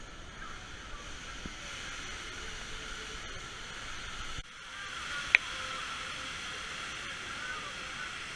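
Steady hissing outdoor background noise with faint chirping, and one short, sharp, high-pitched sound about five seconds in.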